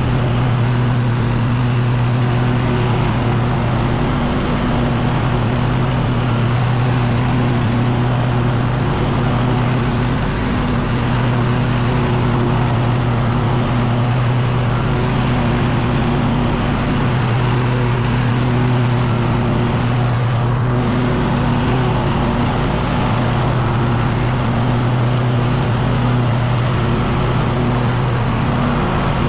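Echo PB-9010T two-stroke backpack leaf blower running steadily: a constant engine drone under a broad rush of blown air, with brief small dips in the engine note.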